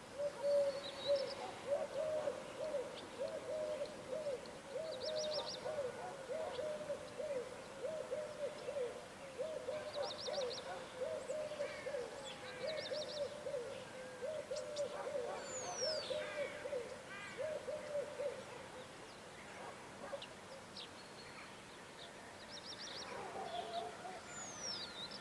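A bird cooing in a long run of low, repeated notes that stops a few seconds before the end, with scattered short high chirps and a couple of falling whistles from other birds.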